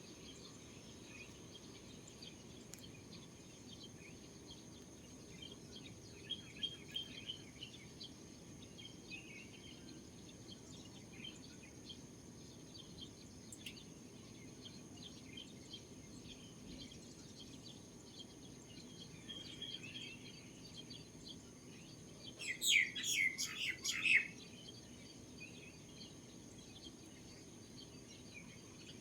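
Small birds chirping in short scattered calls, with a loud burst of rapid chirps about three-quarters of the way in. A steady high-pitched tone runs underneath.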